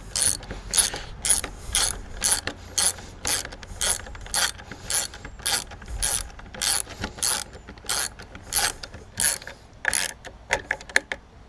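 Ratchet clicking in steady back-and-forth strokes, about two clicks a second, as a fastener is tightened.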